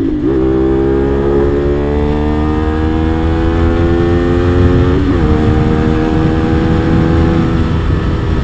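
CFMOTO 450SR's 450 cc parallel-twin engine accelerating on the road. An upshift just after the start is followed by revs climbing steadily, then a second quick upshift about five seconds in and a steady pull at higher revs.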